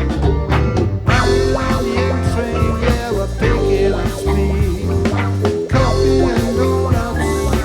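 Rock band playing live with a ska-like beat: electric guitars, keyboard, bass and drums with percussion, an instrumental passage without singing.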